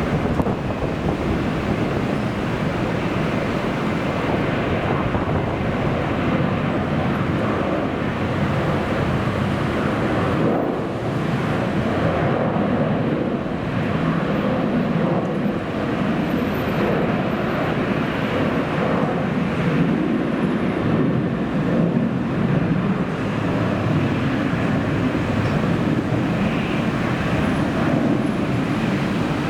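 Strong wind buffeting the microphone in gusts, mixed with the steady rushing noise of jet airliner engines.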